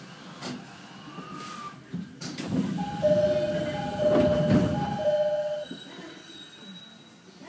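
Running noise inside a TWR 70-000 series trailer car: wheels on rail and a steady rumble. About two and a half seconds in it grows louder for about three seconds, with two steady high tones that start and stop, then it settles back.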